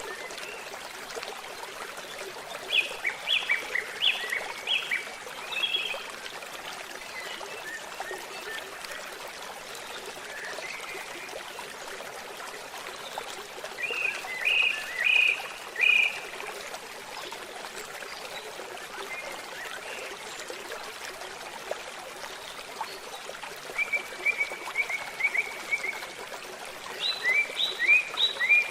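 A stream trickling steadily, with a bird singing quick series of high chirps several times: about three seconds in, around the middle, and twice near the end.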